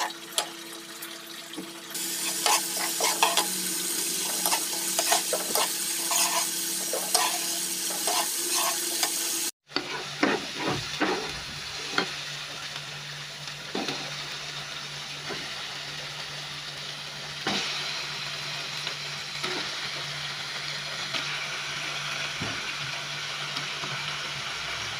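A ground spice paste sizzles as it fries in oil in a non-stick wok. A metal spatula scrapes and taps against the pan as the paste is stirred.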